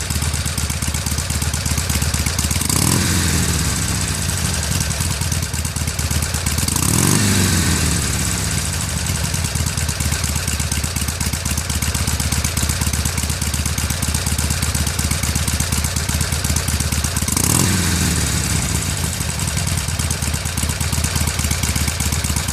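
Harley-Davidson Sportster XL883N's 883 cc V-twin idling through Screamin' Eagle Street Performance slip-on mufflers, with three short throttle blips about three, seven and seventeen seconds in that rise and fall back to idle.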